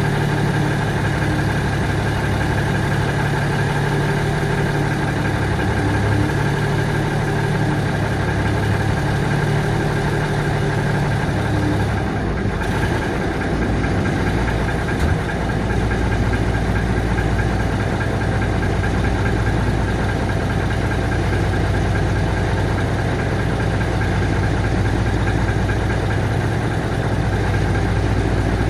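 Mack Maxidyne ENDT676 turbocharged inline-six diesel idling steadily after a cold start. Its low note shifts about twelve seconds in, and there is a single small click a few seconds later.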